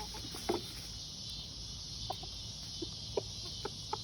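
Steady chirring of crickets, with a scattered series of about six short, sharp pops, which sound like distant fireworks.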